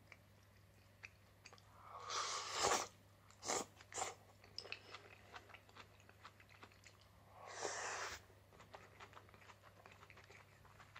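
A person chewing a mouthful of mapo eggplant and rice close to the microphone, with many small wet clicks. Two longer breathy rushes come about two seconds in and again near eight seconds, and two sharp clicks come at about three and a half and four seconds.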